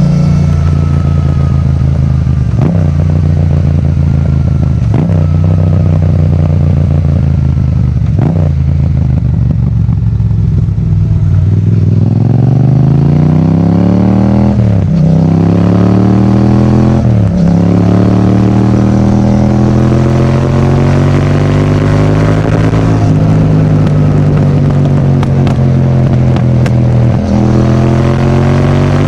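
Yamaha MT-07's parallel-twin engine running through an Akrapovič titanium exhaust. It holds a steady pace at first, then accelerates hard from about twelve seconds in, with two quick upshifts shortly after, before settling back to a steady run.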